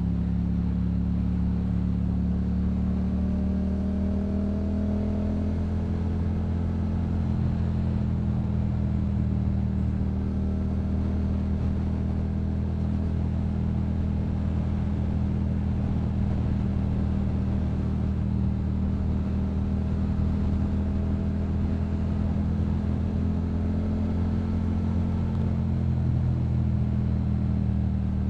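Yamaha MT-07's 689 cc parallel-twin engine through a Yoshimura aftermarket exhaust, running steadily at cruising speed, its note drifting slightly up and down with small throttle changes.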